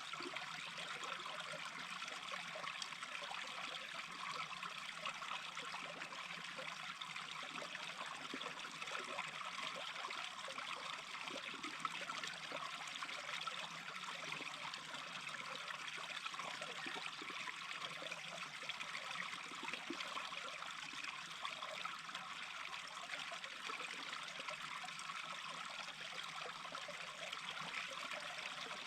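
Small brook babbling steadily, an even trickling and splashing of running water.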